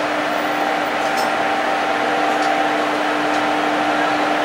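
Indian Railways passenger train running, heard from on board: a steady rush of running noise with a constant hum and a few faint clicks.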